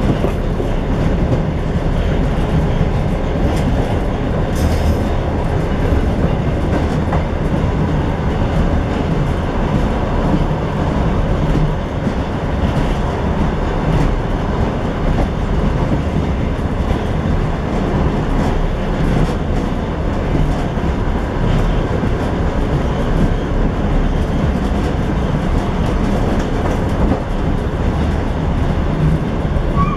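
A train running along the line, heard from inside its last car: a steady rolling noise of steel wheels on the rails, with clicks as the wheels pass over rail joints.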